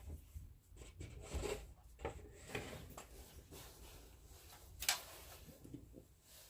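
Indoor handling noise: rustling and scattered light knocks and clicks, with one sharper click about five seconds in.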